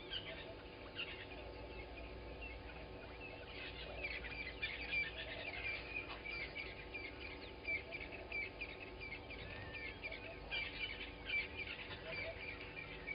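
Morning chorus of several wild birds chirping and trilling, with bursts of quick high chirps about four seconds in and again near the end.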